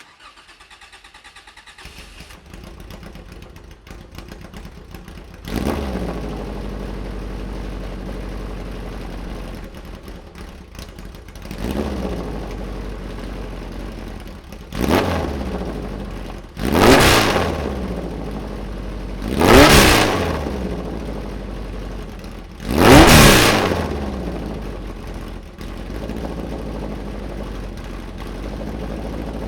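1961 Dolphin America race car engine cranked over by the starter and catching about two seconds in, then idling with a series of sharp throttle blips, each rising and falling in pitch; the last three blips are the loudest.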